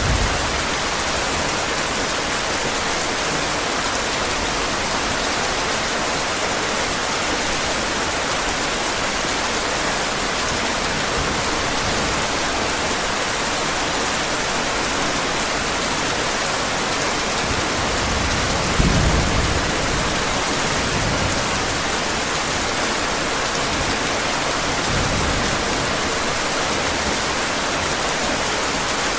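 Steady heavy rain falling, an even hiss of drops, with a low thunder rumble swelling about two-thirds of the way in and a fainter one a few seconds later.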